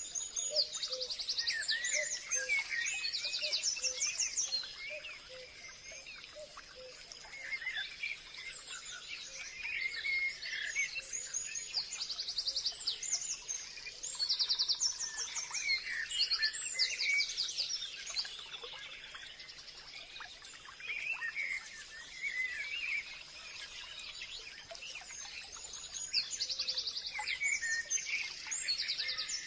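Several birds singing in a forest, with fast high trills and chirps repeating in bursts and overlapping, and a steady faint high hum beneath them, as of insects.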